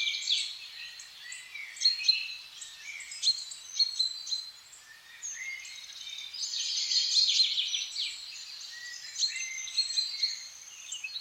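Several songbirds singing and calling at once: a mix of short chirps, whistled notes and trills, thickening into a dense burst of song about six to eight seconds in.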